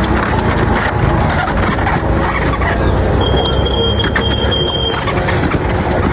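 Busy street traffic noise, steady and loud, with a thin high steady tone sounding for about two seconds in the middle.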